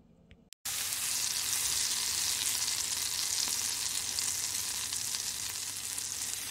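Food frying and sizzling in a hot pan, a steady crackling hiss that starts abruptly about half a second in.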